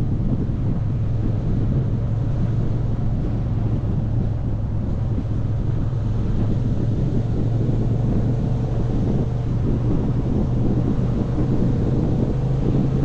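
Motorcycle engine running at a steady cruise, with heavy wind noise on the microphone.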